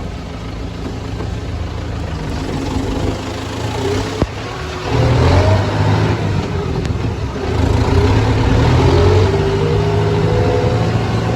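Engine running steadily, then revving up about five seconds in and again about eight seconds in, with a single sharp click a little after four seconds.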